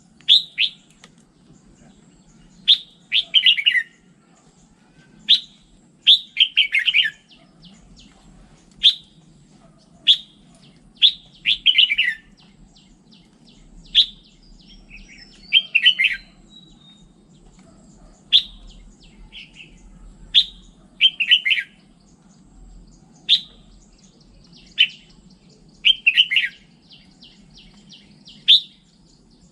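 Red-whiskered bulbul singing: short loud phrases every two to three seconds, each a sharp note followed by a quick falling warble, over a faint steady hum.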